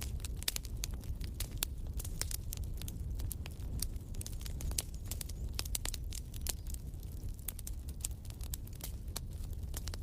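Wood fire burning in a fireplace, crackling with irregular sharp snaps several times a second over a steady low rush of flame.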